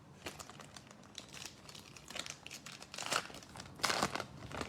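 Crinkling of a foil trading-card pack wrapper being handled and torn open, irregular crackles that come thickest about three seconds in.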